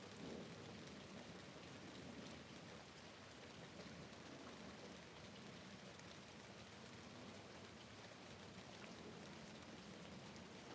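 Faint, steady rain, with scattered raindrop ticks against a window.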